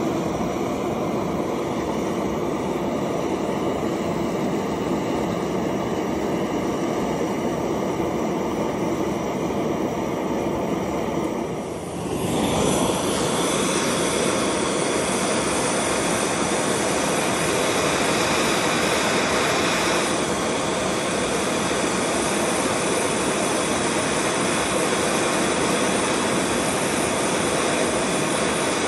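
Gas torch burning with a steady roar, heating the cracked Puch engine block half to melt zinc into the crack. About twelve seconds in the roar gets a little louder and hissier.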